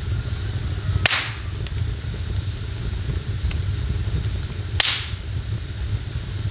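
Wood fire in a fireplace, with two sharp pops about four seconds apart as the burning wood cracks, over a steady low rumble of fire and rain.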